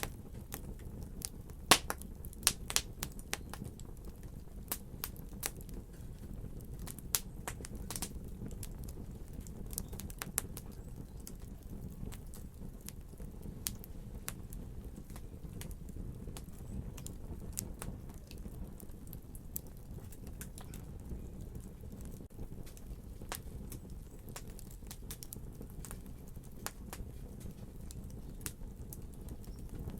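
Wood fire in a fireplace crackling: irregular sharp pops and snaps over a steady low rumble of burning, with a cluster of louder pops in the first few seconds.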